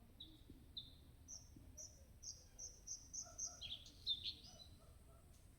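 A songbird singing one phrase: a few spaced short notes, then a quickening run of higher notes, ending in a louder, lower flourish about four seconds in.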